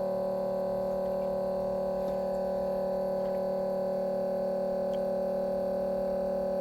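A steady electrical hum made of several unchanging tones, holding level without a break.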